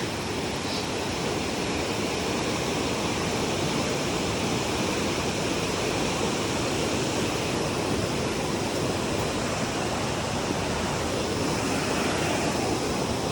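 Rushing water of a rainforest river running over rocks, a steady, even roar.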